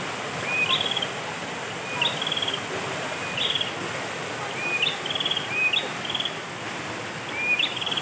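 A songbird repeats a short phrase about every second and a half: a slurred rising note followed by a quick trill. Behind it runs the steady rush of a small forest stream.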